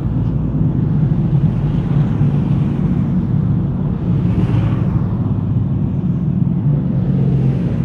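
A motor vehicle's engine running steadily with a low rumble, with a short swell of hiss a little past the middle.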